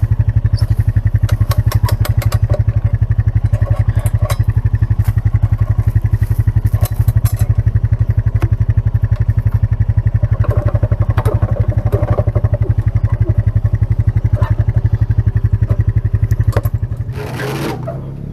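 Kubota KX-018 mini excavator's diesel engine running steadily with an even rapid pulse, with scattered clicks and clanks over it. Near the end the engine's steady note drops away.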